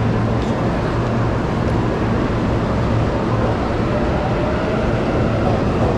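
Electric commuter train at a station platform: a steady low hum with a constant haze of station noise. In the second half a faint whine rises in pitch as the train begins to pull out.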